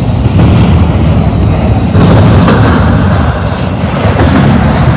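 BNSF double-stack intermodal freight train rolling past close by: a loud, continuous rumble of the cars' wheels on the rails.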